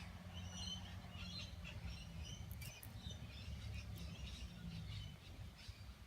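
Faint, scattered chirping of small birds over a low steady hum.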